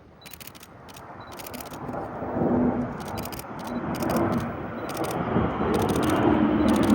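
Boeing P-8 Poseidon jet flying overhead, its engine rumble building steadily from faint to loud, with a low tone coming through near the end. Bursts of rapid camera shutter clicks cut in every second or so.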